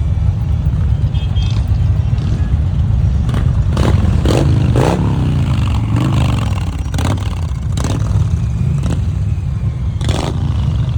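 Motorcycle engine running with a low, steady rumble, its pitch rising and falling around the middle as it is revved, with several sharp knocks and clatters over it.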